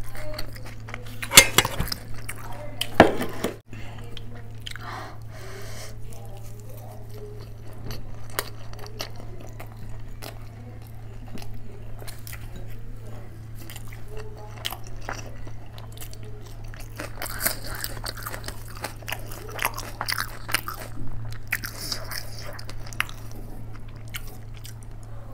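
Close-miked eating: two loud crunching bites into a raw green chilli, about one and three seconds in, then steady chewing with wet mouth sounds and small clicks and smacks.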